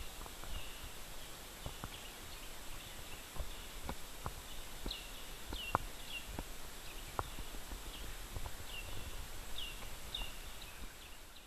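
Summer woodland ambience: a short high chirp, each one falling in pitch, repeats every half second or so, with scattered light clicks and snaps.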